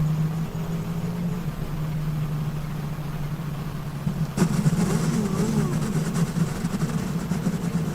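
A vehicle engine running steadily, with a sharp knock about four seconds in, after which the running sounds rougher.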